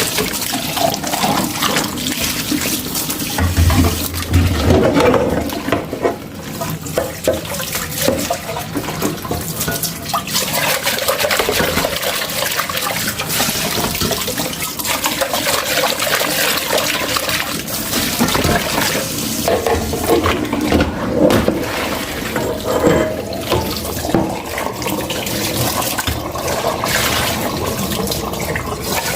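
Kitchen tap running steadily into a sink as dishes are washed by hand, with short knocks of dishware and a low thump about four seconds in.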